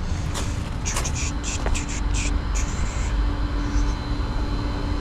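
Tow truck's engine running with a steady low rumble and a constant hum. A series of short, hissy ticks comes in the first half.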